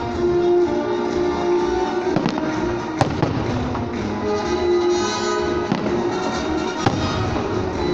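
Festive fireworks bursting with several sharp bangs, over loud music with long held notes.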